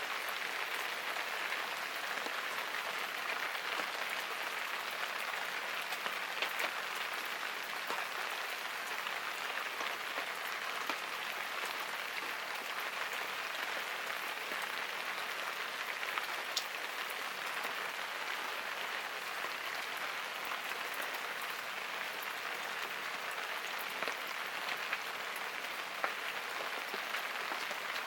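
Steady rain falling, an even patter with scattered sharper drip ticks.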